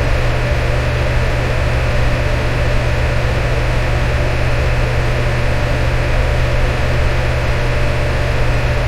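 Electric fan running steadily: an even whooshing rush with a low drone and a faint steady hum.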